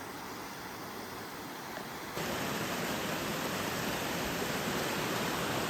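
Steady rush of flowing water from a woodland stream and waterfall, which steps abruptly louder about two seconds in.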